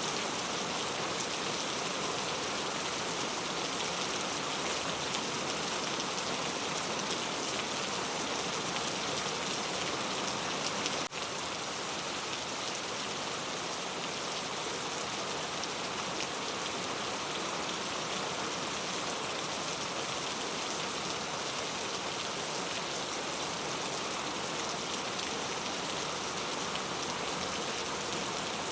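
Steady heavy rain falling, an even dense hiss with no let-up. A brief click with a momentary dip in level about eleven seconds in.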